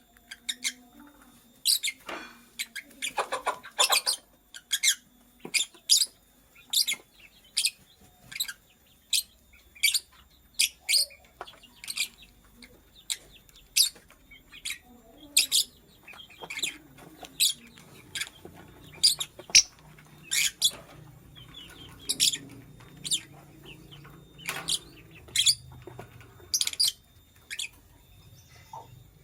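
Lovebird giving sharp, high-pitched chirps over and over, about one or two a second, with a quicker flurry of calls a few seconds in.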